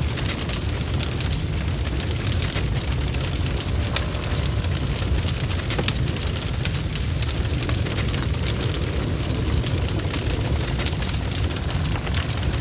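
Crackling fire: a steady low rumble of burning with frequent sharp pops and snaps scattered throughout.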